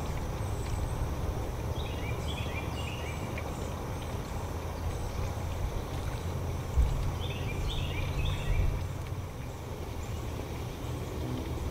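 A songbird sings twice, each phrase a quick run of chirped notes stepping down in pitch, over a steady low rumble.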